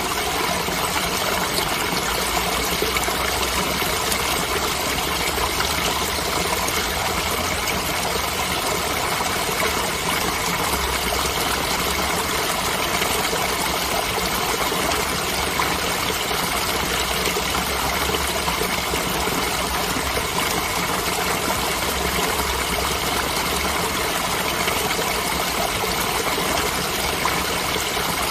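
Steady rushing of a flowing stream, water running over its bed in an even, continuous wash, with a low rumble that comes and goes.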